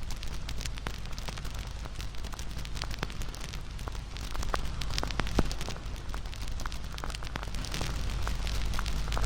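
Wood fire crackling, with many irregular sharp pops and snaps over a steady low rush of burning flames, and one louder pop about five seconds in.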